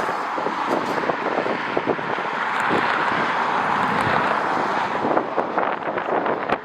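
Strong gusty wind buffeting the microphone, with a steady roar that swells from about two seconds in and eases after about five.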